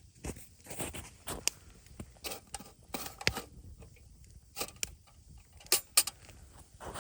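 Irregular light clicks, knocks and short rustles of things being handled, with a few sharper ticks.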